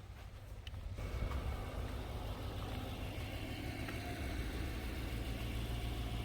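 Car driving: a steady low engine and road rumble, growing a little louder about a second in.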